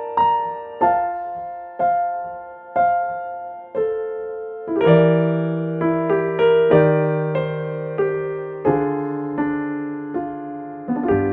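Background piano music: slow single notes, joined about halfway through by bass notes and a fuller, busier accompaniment.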